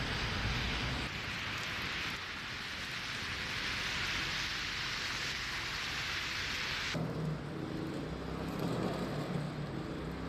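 Steady outdoor hissing noise that changes abruptly at cuts, then a lower rumble with a faint engine hum about seven seconds in.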